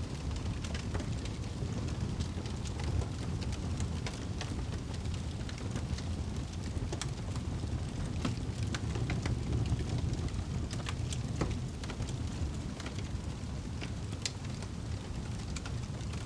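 Wood fire burning in a fireplace: a steady low rumble of the flames with scattered crackles and pops of the burning logs.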